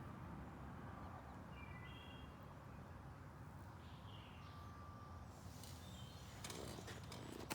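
Faint outdoor background noise with a few short, high chirping calls from small animals in the first half, then rustling and a sharp click near the end.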